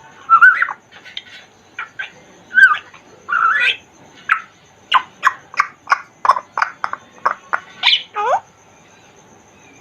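African grey parrot calling in a run of short whistles, clicks and squawky calls, some gliding in pitch, with a quick series of sharp clicks a few per second in the second half and a call that sweeps down near the end, after which it falls quiet.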